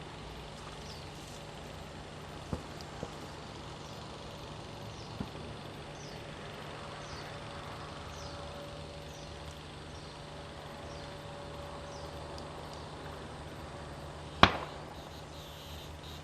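Quiet outdoor background with a steady hum, a string of short, high, falling chirps about twice a second, and one sharp click about three-quarters of the way through.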